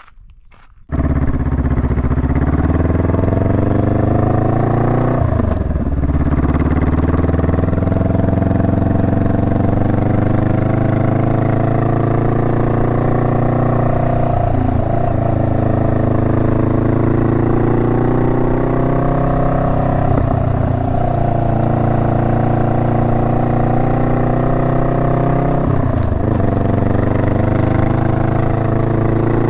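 Honda Rebel 500's parallel-twin engine coming in abruptly about a second in, then pulling under acceleration, its pitch climbing slowly between four brief breaks at gear changes.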